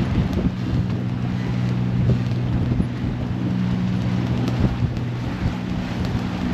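A sailboat's inboard engine running at a steady drone, with wind noise on the microphone.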